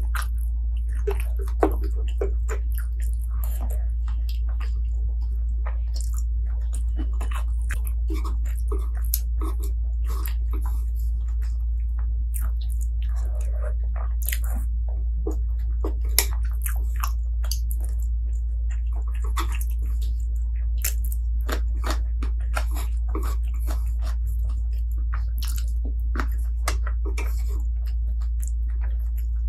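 Close-miked eating sounds: irregular chewing and biting with many short wet clicks and smacks of the mouth, over a steady low hum.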